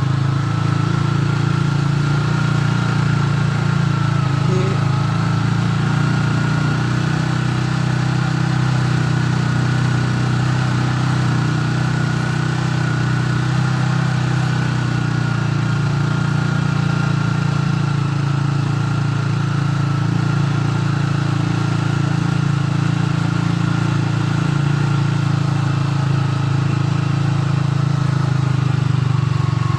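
A small engine running steadily at an even speed, like an engine idling, with a faint whine above its low hum.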